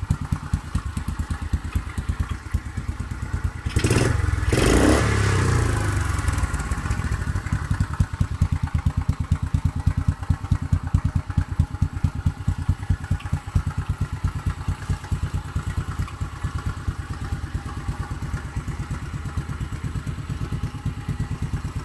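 A 70cc four-stroke dirt bike engine running at idle with a steady low putter, given a brief throttle blip about four seconds in, the revs then falling back to idle.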